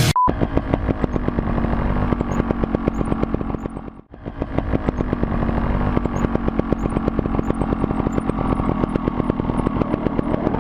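A short beep, then a motorcycle engine running with a rapid, even beat. It cuts out briefly about four seconds in and then runs on steadily.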